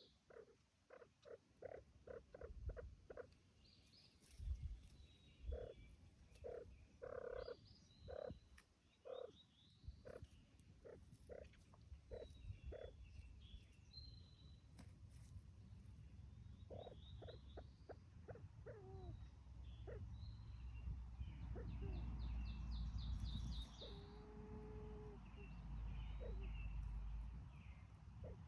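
Grouse giving a series of short, low clucks: a quick run for the first few seconds, then slower, about one a second. Small birds chirp faintly and high, and a low rumble rises in the second half.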